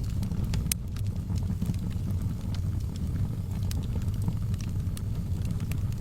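Wood fire burning in a fireplace: scattered sharp crackles and pops, with one louder snap a little under a second in, over a steady low rumble.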